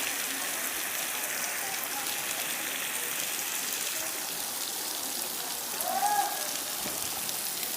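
Waterfall's falling water making a steady hiss. A voice calls out briefly about six seconds in.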